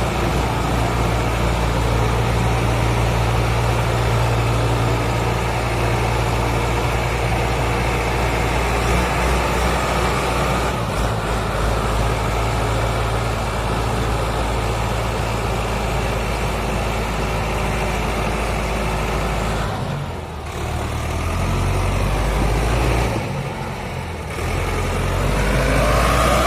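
Heavy diesel tractor engine running hard under load, a steady low drone that drops off briefly twice in the last third and then revs up with rising pitch near the end.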